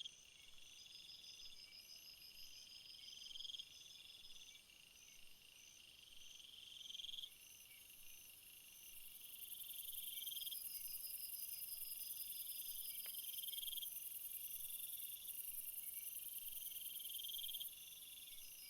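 Crickets and other field insects chirping, with several trills overlapping. One high trill swells and breaks off about every two seconds. A higher, steady buzz joins about eight seconds in and stops shortly before the end.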